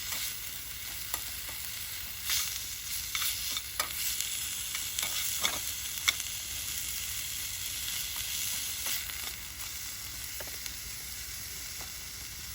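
Food frying in a pan: a steady sizzle with scattered sharp pops, the loudest about six seconds in.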